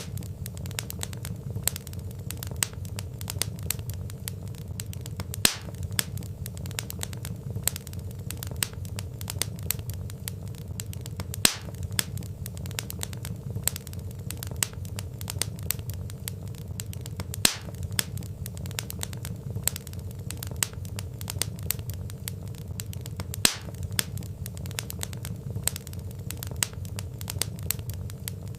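Wood fire crackling: dense small snaps and pops from burning logs over a steady low rumble of flame, with a louder pop about every six seconds.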